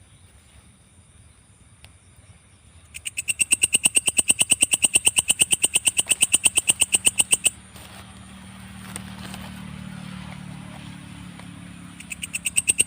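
Belalang kecek (katydid) calling: a fast, even train of shrill pulses, about ten a second, starting about three seconds in and breaking off about halfway. In the pause a low hum is heard, and the pulsing starts again near the end.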